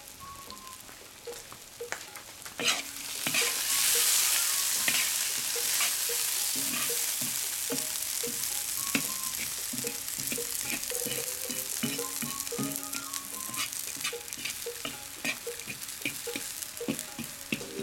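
Oil sizzling in a cast-iron kazan with julienned carrots, turning to loud frying about three seconds in after a sharp clatter as chunks of meat go into the hot oil. A metal skimmer then stirs the meat and carrots, clinking and scraping against the pot.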